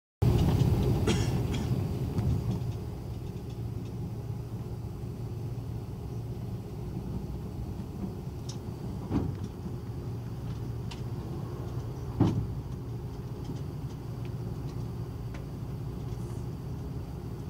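Steady low hum of an Airbus A330 airliner heard from the cabin, louder for the first couple of seconds and then even. Two sharp knocks cut through it, about 9 and 12 seconds in.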